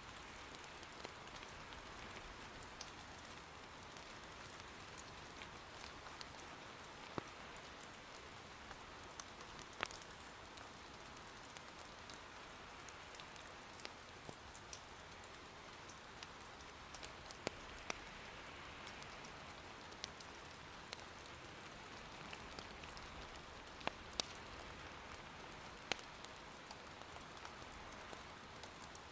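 Steady, soft rain falling, with the firewood in an irori hearth crackling now and then in sharp single pops.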